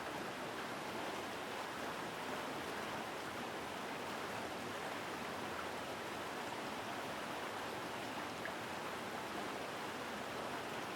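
A mountain stream rushing over rocks: a steady, strong, even rush of flowing water.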